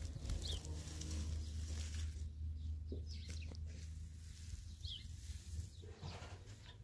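Scattered short bird chirps over a low steady hum that fades out about halfway through.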